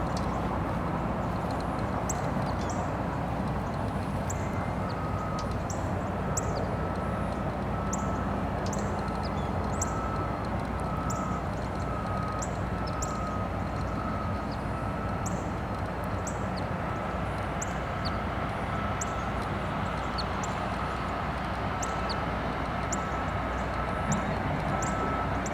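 Distant heavy earthmoving machinery, such as trackhoes and bulldozers, running steadily as a continuous low rumble. A faint steady high whine and short high ticks about once a second sit over it.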